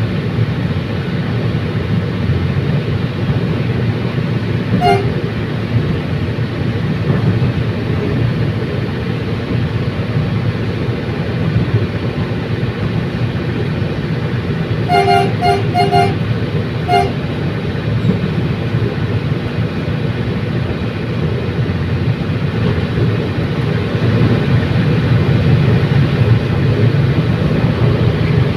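Commuter train running, a steady low rumble of the rail car on the track. A short horn toot sounds about five seconds in, then a quick run of four toots and one more a little later.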